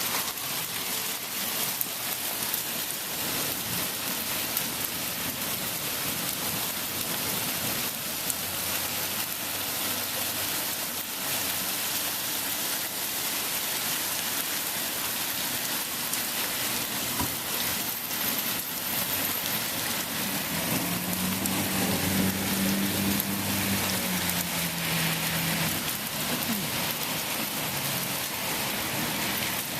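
Steady rain from a severe thunderstorm falling on surfaces, an even hiss throughout. A low hum comes in twice, briefly around the middle and louder about two-thirds of the way in.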